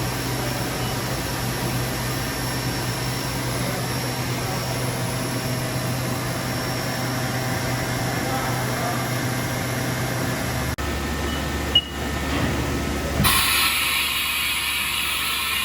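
Haas VF4 vertical machining center running with a steady low hum. About two-thirds through, the sound changes abruptly and there is a click. Near the end a loud hiss starts, then cuts off.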